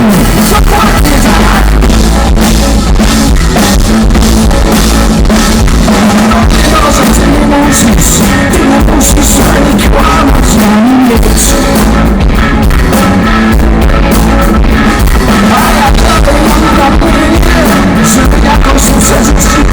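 Live rock band playing loudly, with drum kit and a male vocalist singing. The recording is very loud and close to overloading.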